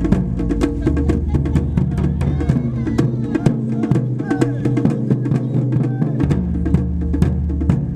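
Taiko drumming, with rapid drum strokes over sustained low musical tones and a wavering higher melody line.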